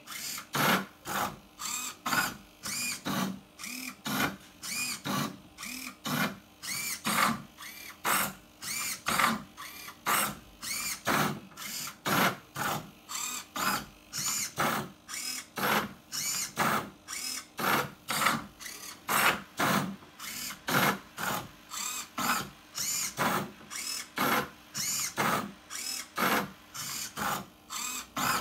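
Motors of a 3D-printed Rubik's Cube solving robot turning the cube's faces move after move: a quick series of short whirring turns, about two a second, each rising and falling in pitch, over a faint steady hum.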